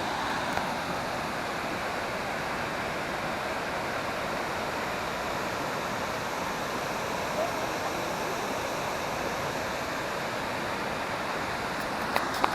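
Waterfall cascades at Krka National Park, with steady rushing white water. A couple of sharp clicks come near the end.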